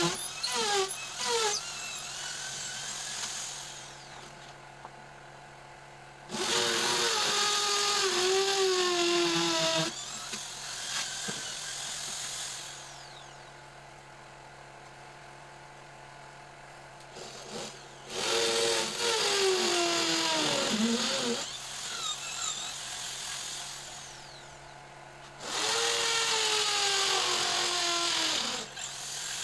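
A power tool running in three bursts of a few seconds each, its whine dropping in pitch during each burst, with a steady low hum in the gaps.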